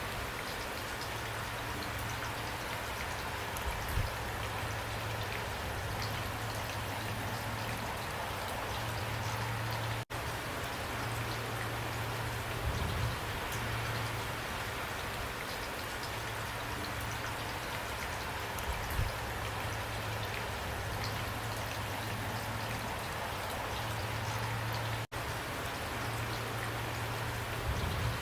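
Steady rain falling, an even hiss of drops with a low hum that comes and goes underneath. The sound cuts out for a split second twice, about a third of the way in and near the end.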